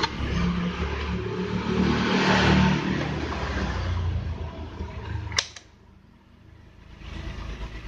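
A motor vehicle engine passing by, its noise swelling and then fading away, with a sharp click about five seconds in.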